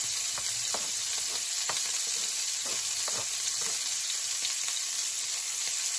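Butter sizzling in a hot pan on very high heat as chopped onion and garlic fry in it, a steady hiss with a few faint clicks.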